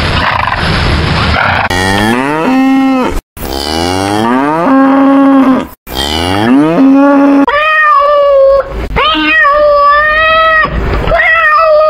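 A cow mooing three long times, the first moo rising in pitch. A cat then meows several times in the last few seconds.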